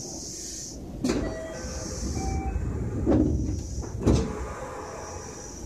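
Sound aboard a JR West 225 series 5000 subseries electric train: a steady low rumble with recurring high hiss, and three sharp knocks about one, three and four seconds in.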